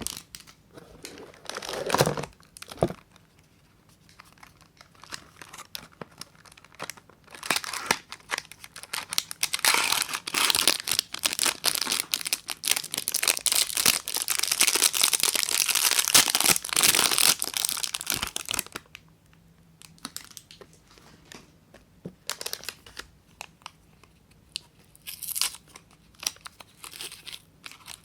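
Soap packaging being torn open and crinkled by hand: a crackling, tearing rustle, densest through the middle, with sparser crinkles toward the end.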